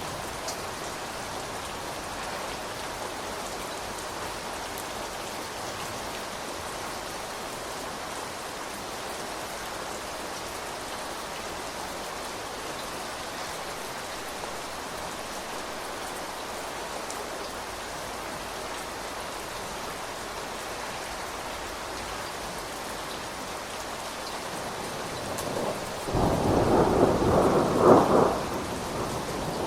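Steady rain falling, with a loud rumble of thunder rising near the end and lasting about three seconds.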